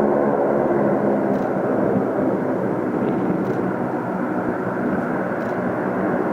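Steady drone of an Ilyushin Il-18's four Ivchenko AI-20 turboprop engines running, with the propeller tone blurring into a rushing noise.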